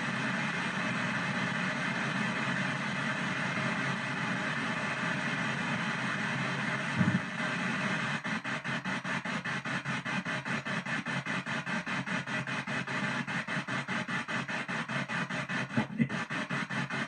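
P-SB7 ghost box sweeping backwards through radio stations, giving a steady radio static hiss. About halfway through, the static becomes rapidly chopped, roughly four to five pulses a second, with two brief louder blips of signal.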